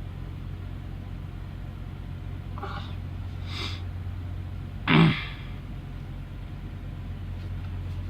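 Kenworth T680 truck's diesel engine idling with a steady low hum inside the cab. About five seconds in there is one short, loud sneeze or cough, with a couple of faint breathy sounds just before it.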